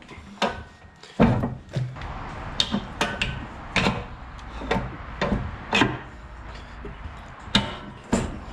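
Irregular metal clunks and knocks, about a dozen, some with a short ring, from a Bobcat 753 skid steer's quick-attach handle and tapered wedge pins being worked by hand. The lever is stiff because the bucket isn't sitting all the way down on the attachment plate.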